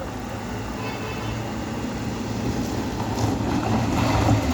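Truck engine running, getting louder toward the end.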